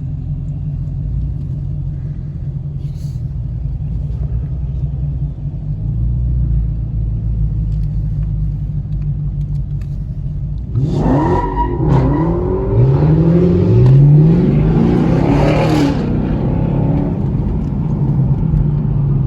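A car engine idling with a low rumble, then, about eleven seconds in, revved hard several times in quick succession, the pitch climbing and falling with each rev, before dropping back to idle.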